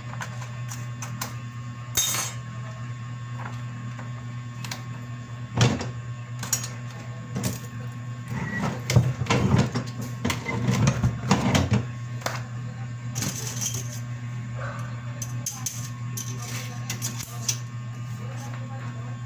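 A steady low machine hum with scattered sharp clicks and knocks, and a busier run of clattering in the middle.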